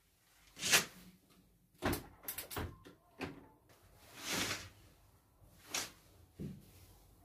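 Household handling sounds: a string of about seven short knocks, clacks and brief rushing sounds, with a duller low thump near the end, like cupboard doors and objects being moved.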